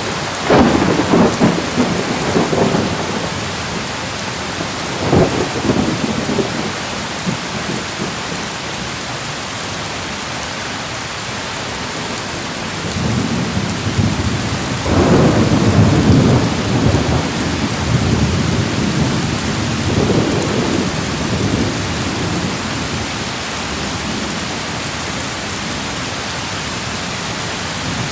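Thunderstorm with steady rain. A sudden clap of thunder just after the start rolls on for a few seconds, a shorter rumble follows about five seconds in, and a long rolling rumble builds from about halfway, loudest a few seconds later, then fades into the rain.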